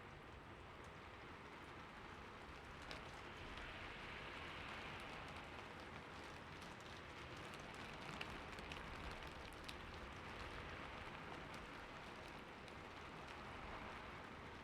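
Steady rain falling on a roof, a soft even patter that swells and eases slightly, with occasional sharper single drop ticks.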